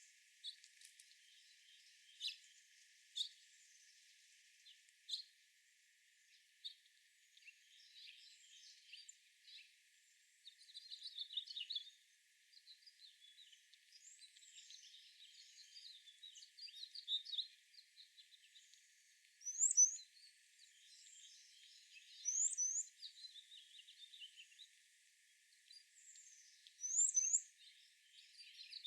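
Several wild songbirds chirping and singing, with scattered single chirps at first, then warbled phrases. In the second half one bird repeats a high, sharp phrase every few seconds.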